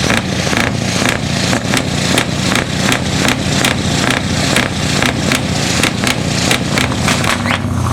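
Large truck engine running loud and close, a steady low rumble overlaid with rapid, irregular crackling pops.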